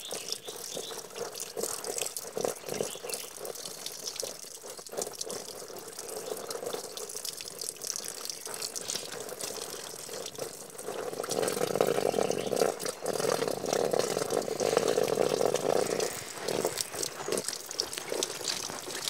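Water running and splashing, like a tap into a sink, with small drips and clatters, louder for about five seconds in the middle.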